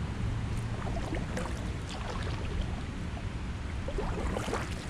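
Kayak paddle dipping and splashing in the water, with a cluster of splashes about four seconds in, over a steady low rumble.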